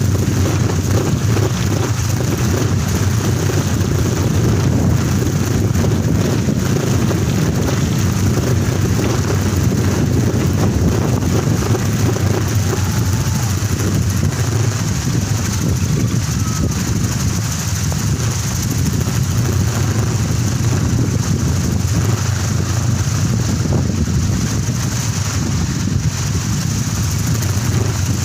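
Kolecer, a wooden wind propeller on a tall pole, spinning fast in strong wind and giving a steady, loud low drone, with wind rushing over the microphone.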